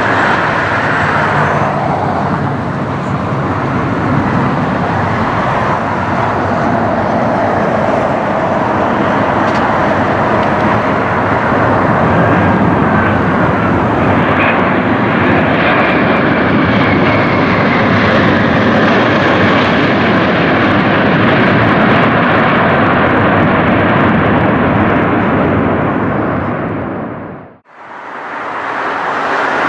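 Jet airliner engines running loud and steady as the aircraft passes, a dense rushing noise that grows fuller through the middle. It cuts off suddenly near the end, and road traffic follows.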